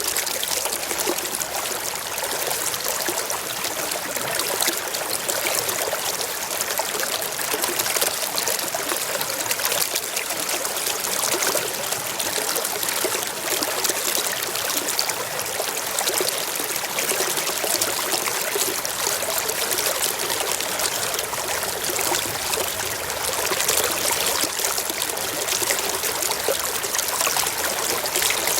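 Forest stream flowing and trickling over rocks, a steady splashing and burbling.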